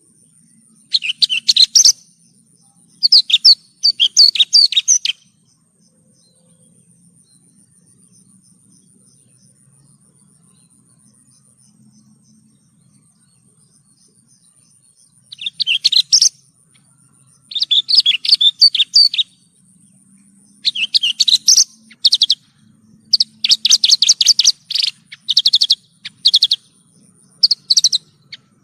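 Javan bush lark (branjangan) singing in fast, chattering phrases of high chirps and trills. There are two phrases in the first few seconds, then a pause of about ten seconds, then phrases coming thick and close together towards the end.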